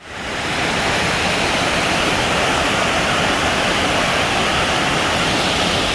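Waterfall rushing: a loud, steady wash of falling water that fades in at the very start.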